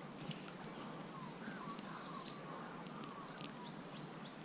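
Several birds calling: short high whistled notes and quick chirps, with some warbling, over a low steady hiss.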